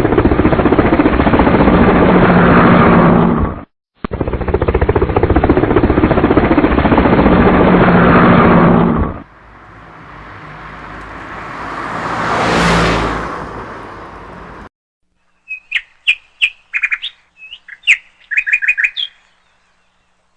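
Two long stretches of a loud, rough noise that stop abruptly, then a sound that swells and fades away, then a run of short bird chirps near the end.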